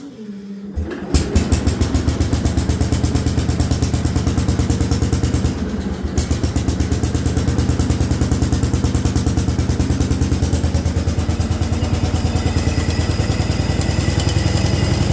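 Allis-Chalmers B-210 garden tractor's engine cranking briefly and catching about a second in, then running with an even, rapid beat. The note dips briefly around six seconds in before it picks up again.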